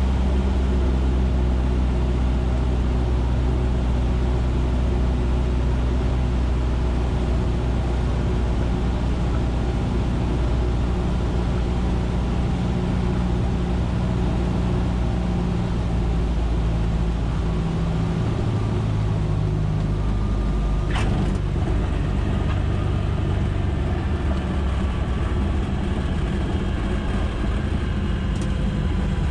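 Cessna 150's four-cylinder Continental O-200 engine and propeller droning steadily, the pitch shifting a little midway. A single sharp click comes about two-thirds of the way through.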